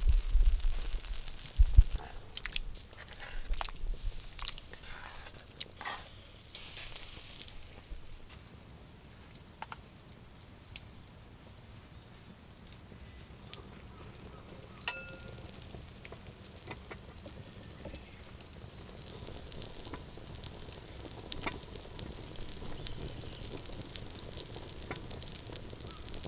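Food sizzling quietly in a pan over a campfire, with scattered small clicks and one sharp metal clink about halfway through. A low rumble is heard in the first couple of seconds.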